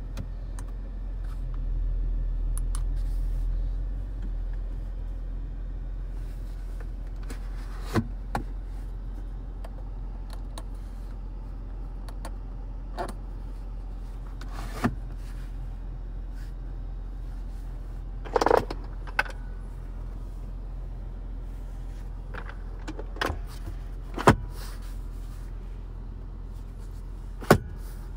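The 2022 Audi SQ5 Sportback's turbocharged V6 idling with a steady low hum that swells briefly about two seconds in, with a scattering of sharp clicks and knocks on top.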